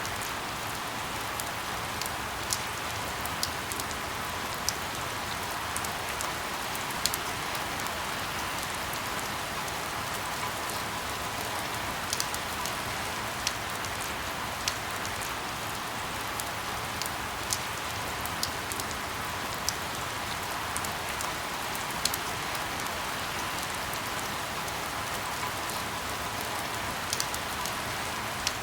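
Steady rain falling, an even hiss with scattered sharp drop ticks about once or twice a second.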